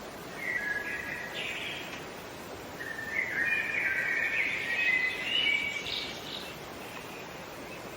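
Bird song in two bursts of chirping phrases, a short one about half a second in and a longer one from about three to six and a half seconds in, over a steady background hiss.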